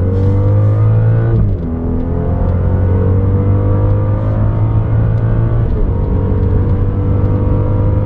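Turbocharged car engine under hard acceleration, its note climbing steadily through the gears. There are upshifts about a second and a half in and again near six seconds in.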